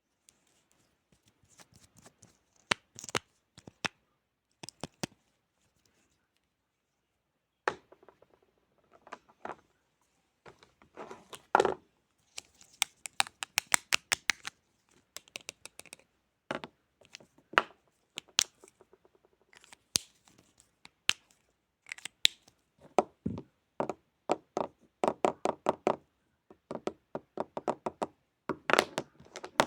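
Close-miked ASMR handling sounds: a string of sharp clicks, taps and short scratchy strokes, some coming in quick runs of several strokes a second. There is a pause of a couple of seconds about five seconds in.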